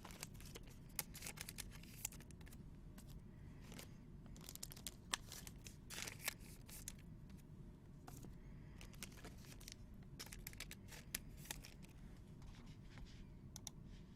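Faint, irregular crinkling and tearing of trading-card pack wrappers, with cards being handled, and scattered short clicks and snaps.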